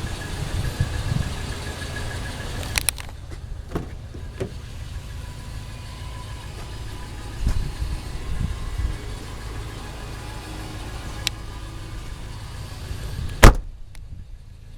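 Toyota Tacoma pickup's engine idling with a steady low rumble, with a few light clicks and one sharp bang near the end.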